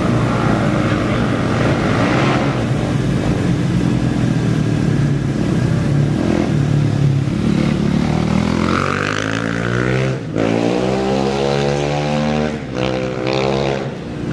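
Off-road race engines running at the start line, their note rising in pitch through the second half as a racer accelerates away, broken by a few brief dips.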